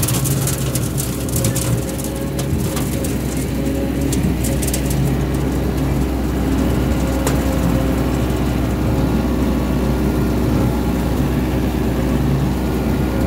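Small red tractor's engine running steadily at a constant speed, with a few light rattles and clicks in the first couple of seconds.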